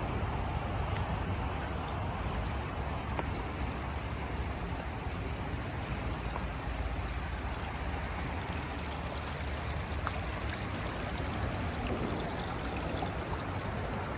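Forest stream running high after overnight rain, water flowing steadily, with a steady low rumble underneath.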